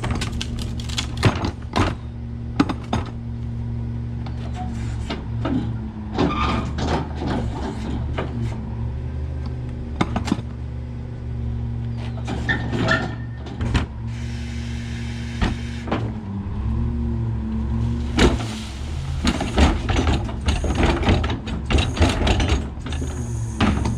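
Autocar McNeilus rear loader garbage truck running a packer cycle: the engine drones steadily under the hydraulics while the blade crushes trash in the hopper, with repeated cracks and knocks. A short hiss comes about fourteen seconds in.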